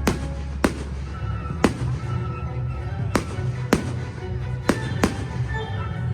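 Fireworks bursting overhead: about seven sharp bangs at irregular intervals, over loud music with a steady bass.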